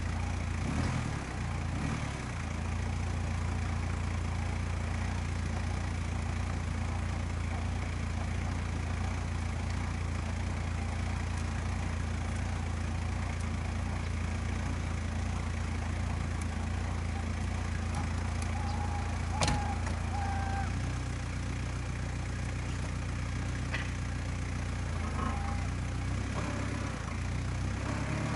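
Jeep Cherokee XJ engine idling steadily, its note shifting slightly about two-thirds of the way through. A single sharp click stands out partway through.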